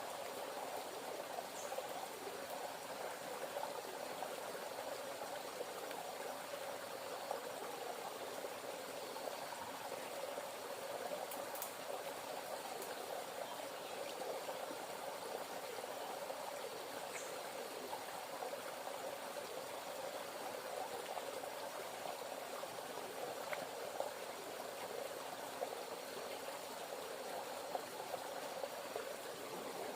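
A river running: a steady rush of flowing water, with a few faint ticks.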